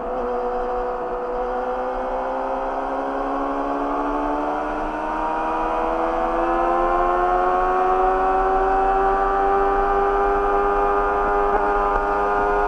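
Yamaha YZF-R6's inline-four engine through an Akrapovic slip-on exhaust, pulling under steady acceleration. Its note rises smoothly for about eight seconds, then holds high and steady.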